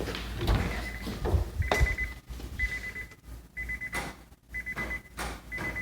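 A car's warning chime beeping steadily, one buzzy half-second beep about every second, with a few knocks and rustles in the first couple of seconds.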